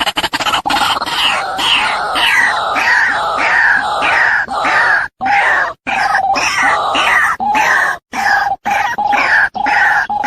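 Female white-breasted waterhen calling over and over: harsh notes, each falling in pitch, about two to three a second, broken by a few short silent gaps. The repeated call is used as a lure (pikat) to draw in waterhens.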